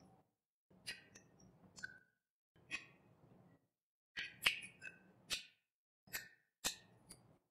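Close-miked chewing of a mouthful of rice and chicken curry: wet mouth sounds with about eight sharp lip smacks and clicks at irregular intervals, separated by short silences.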